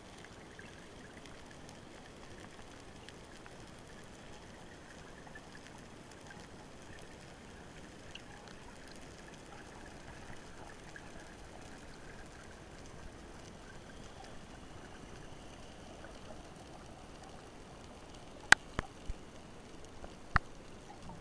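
Underwater ambience in the sea: a steady faint hiss with light crackling, then a few sharp knocks near the end, one loud followed by two quieter ones, and another loud one about two seconds later.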